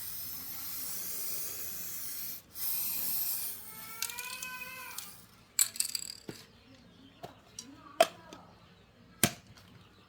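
Hissing spray in two bursts, the first breaking off and the second lasting about a second. A short pitched sound follows, then a scatter of sharp clicks and knocks, the loudest two near the end.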